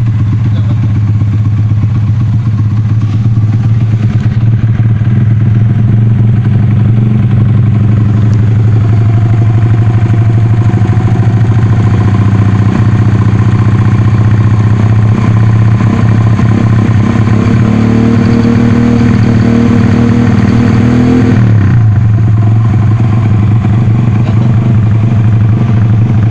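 Honda Astrea Prima's single-cylinder four-stroke engine running steadily while its sound is being tuned. About two-thirds of the way through, the revs rise and hold for a few seconds, then drop back suddenly to the steady idle.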